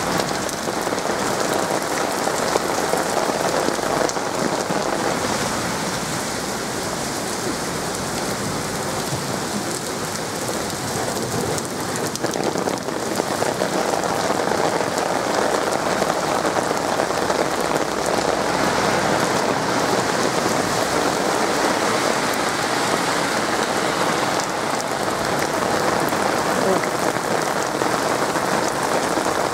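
Heavy rain pouring onto a paved street and pavement, a dense, steady hiss of drops splashing on wet tarmac.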